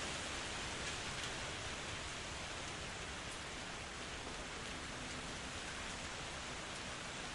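Steady rain falling in a forest, an even hiss of drops with faint scattered ticks.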